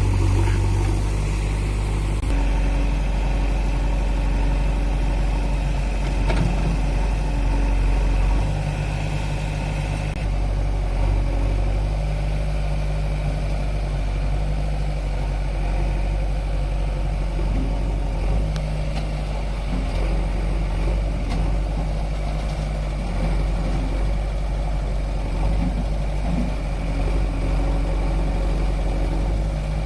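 Heavy diesel engines of farm machinery, a tractor and a JCB backhoe loader, running with a steady low hum. The sound shifts abruptly about 2, 8 and 10 seconds in.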